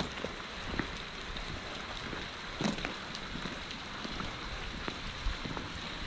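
Heavy storm rain pouring down: a steady hiss with scattered sharper drop hits, the loudest just before three seconds in.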